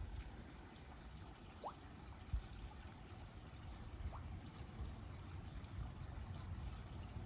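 Steady trickle and pour of water running into a garden koi pond.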